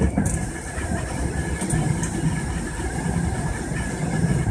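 Electric commuter train running, heard from inside the cab: a steady rumble of the wheels on the rails with a faint steady whine above it, and a few brief high ticks.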